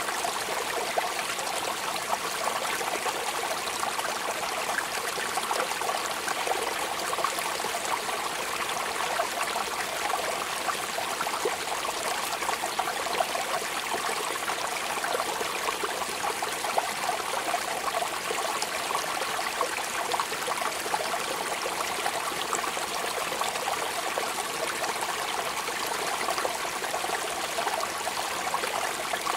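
Steady rain falling: an even, unbroken hiss with scattered louder drop ticks.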